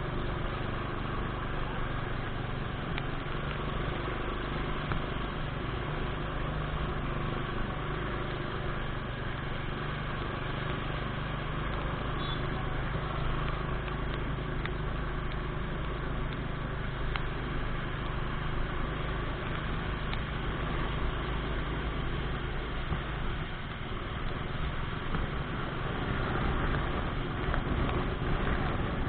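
Motorcycle engine running at a steady pace while riding, over a constant rush of road and wind noise. About 23 seconds in, the engine note dips briefly, then picks up again.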